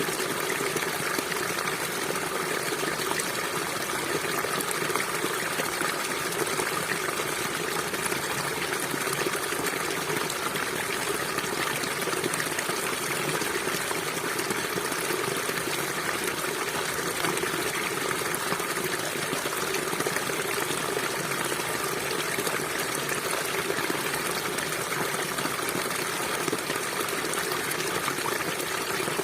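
River water flowing steadily, a continuous even rush without breaks.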